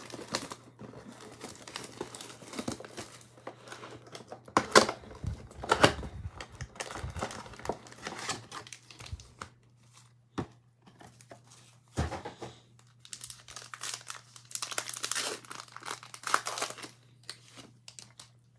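Plastic shrink-wrap and foil wrappers on a box of football trading cards being torn open and crinkled, an irregular rustling broken by a few sharp snaps.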